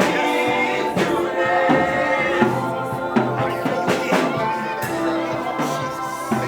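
Church worship music from a live band: sustained chords with occasional drum hits.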